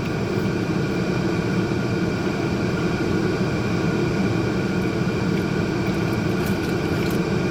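Steady low rumble with a faint even hum, the noise of a running vehicle heard from inside.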